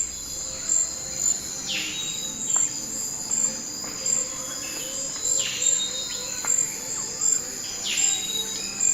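Tropical forest ambience: a steady, high insect trill that pulses in loudness. Over it, a bird gives short calls about every two seconds, each sweeping down in pitch.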